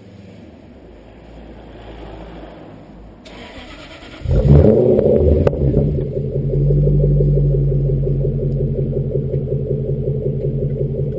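Supercharged 4.0-litre Jaguar AJ V8 starting: it cranks briefly, catches about four seconds in with a loud burst, then settles into a steady idle. It is heard close to its straight-through, big-bore exhaust with no silencers.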